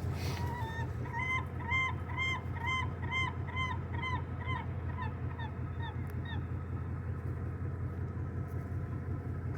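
A gull calling a series of about a dozen evenly spaced, arched notes, about two a second, fading away about six seconds in. A steady low rumble runs underneath.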